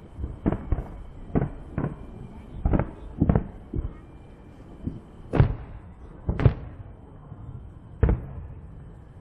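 Fireworks going off in a string of about ten sharp bangs at uneven intervals, each with a short rumbling tail; the two loudest come a little past halfway.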